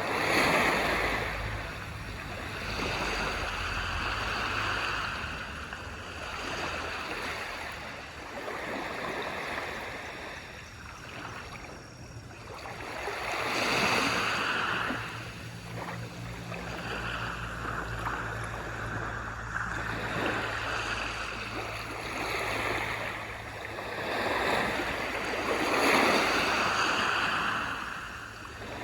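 Waves breaking and washing up on a beach, swelling and ebbing every few seconds, with a low steady rumble of surf underneath.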